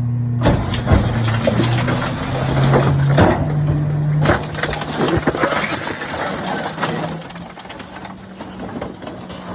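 Garbage truck's compactor crushing a kitchen stove: repeated cracking, crunching and snapping, thickest in the first half and thinning out later. Underneath, the truck's engine runs with its pitch rising steadily as it revs to drive the hydraulics, then holds.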